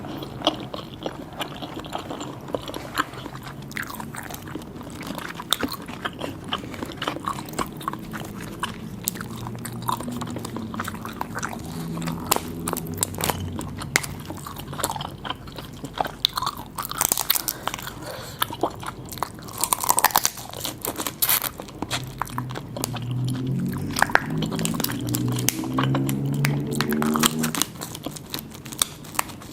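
Close-up eating sounds of seafood: repeated biting, crunching and wet chewing. A low hum comes in twice, around the middle and near the end.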